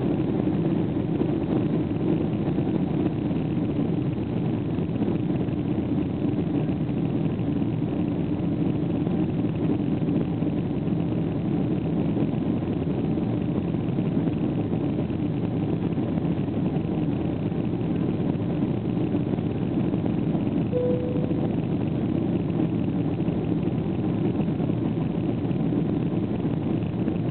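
Boeing 777-200 jet engines and airflow making a steady, even drone heard inside the cabin after takeoff. A short faint tone sounds about three-quarters of the way through.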